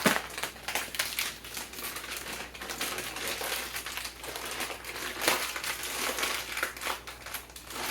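Plastic bag of a frozen meal crinkling in irregular crackles as it is handled and squeezed.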